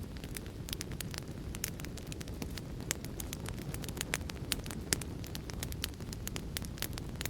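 Wood fire crackling: a steady low rumble of burning with frequent sharp, irregular snaps and pops.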